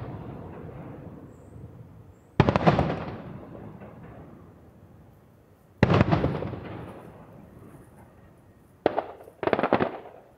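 Aerial firework shells bursting: four sharp booms, about 3 s apart and then two close together near the end, each dying away over a second or two.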